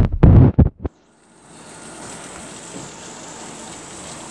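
Rain falling in a steady hiss from about a second in, after a few loud low thumps at the start.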